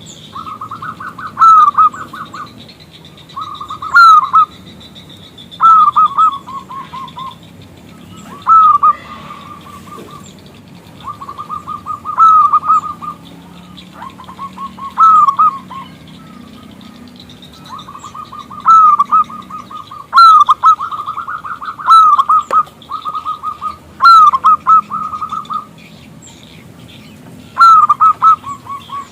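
Zebra dove (perkutut) cooing: repeated loud phrases of quick staccato notes, each phrase about a second long, following one another with short pauses.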